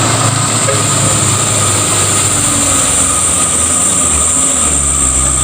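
A truck engine running steadily, with a high, even whine over its low rumble.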